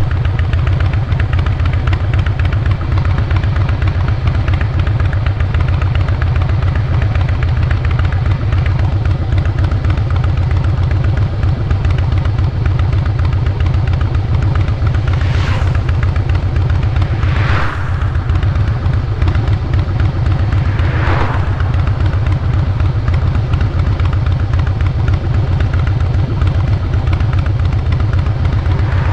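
Harley-Davidson Fat Boy Lo's Twin Cam 96B V-twin running steadily through Vance & Hines Big Radius 2-into-2 exhaust, a deep, even exhaust note. Three brief whooshes falling in pitch pass over it in the second half.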